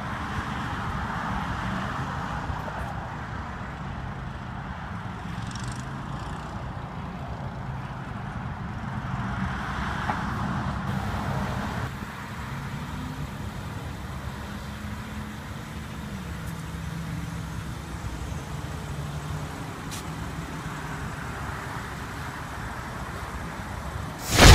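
The BMW X6 xDrive35i's turbocharged inline-six engine running steadily, its pitch stepping down about two-thirds of the way through.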